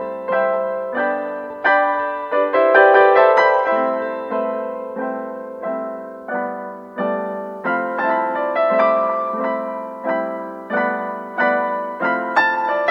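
Solo piano music: a gentle series of notes and chords, each struck and left to fade, at a slow, even pace.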